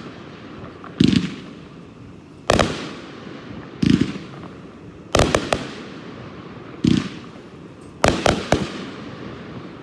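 Red Rhino 'Cherry Drop' multi-shot firework cake firing. Sharp shots come about every second and a half, each a bang with a fading rumble, and near the end a quick cluster of three.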